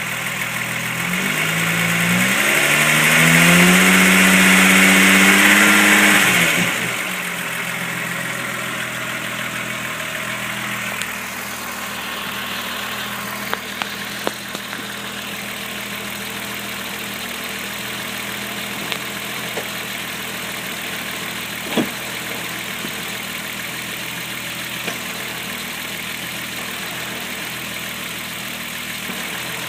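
VW VR6 engine revved up, held for a few seconds, then let drop back to a steady idle. A few short sharp clicks sound over the idle later on.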